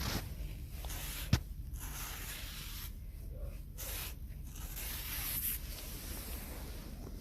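Rubbing and scraping handling noises in uneven swishes, with one sharp click about a second in.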